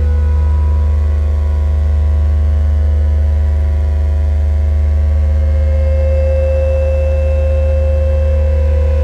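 Lyra-8 analog drone synthesizer holding a steady, dense low drone with sustained higher tones layered over it, run through amp simulation and reverb. About two-thirds of the way in, a mid tone grows brighter and a higher tone joins it.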